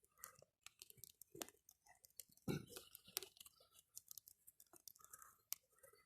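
Small campfire of brushwood and branches crackling faintly, with irregular pops and snaps and one louder snap about two and a half seconds in.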